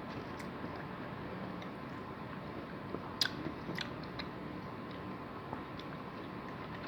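A person chewing and biting food close to the microphone, with a few sharp crisp clicks of biting, the loudest about three seconds in, over a steady hiss.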